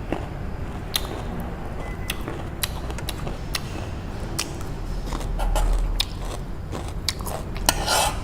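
Close-miked eating of spicy noodles: chewing with many sharp, wet clicks, and a short slurp-like hiss near the end. A low rumble swells briefly about five and a half seconds in.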